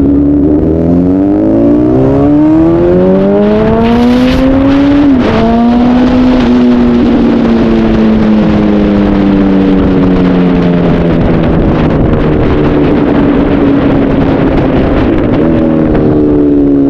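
Honda CBR 1000RR's inline-four engine pulling hard, its note rising for about five seconds before a sudden drop at a gear change. The pitch then sinks slowly as the bike rolls off, and jumps up again near the end.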